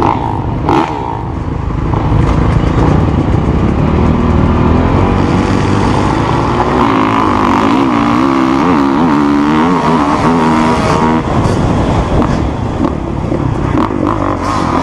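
Motocross motorcycle engine running hard, its revs rising and falling again and again as the throttle is worked, with rushing noise under it.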